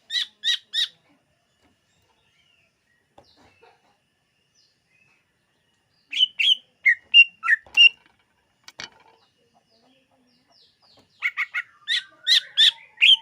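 Cucak ijo (green leafbird) singing: three bursts of quick, varied chirps and whistles, separated by pauses of several seconds.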